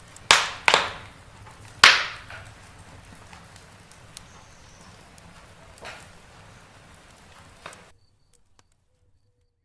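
Wood fire in a fireplace crackling, with a few sharp loud pops in the first two seconds and smaller ones later over a low steady rustle of flame. The sound cuts off abruptly near the end.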